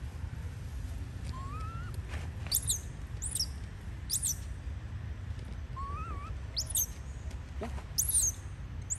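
Birds chirping: a series of quick, high-pitched calls, each sweeping sharply downward, about six of them, with two lower wavering whistles among them. A low, steady rumble runs underneath.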